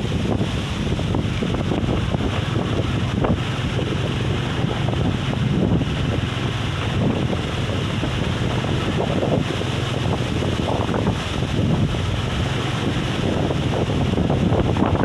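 Strong wind buffeting the microphone with a loud, steady rumble, in gusts strong enough to lift sand.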